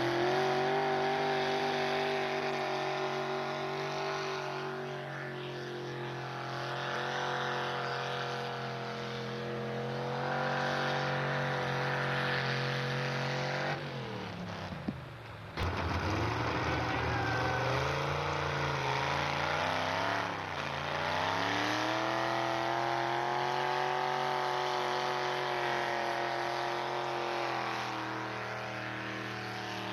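Pulling truck's engine running hard at high revs under load, its pitch slowly sagging and climbing. About fourteen seconds in the revs fall away and the sound briefly drops out, then the engine climbs back up to high revs.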